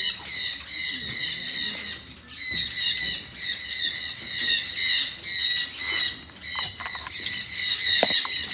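A flock of captive birds in an aviary calling together: a dense chorus of short, high-pitched calls repeating rapidly, with one brief lull about two seconds in.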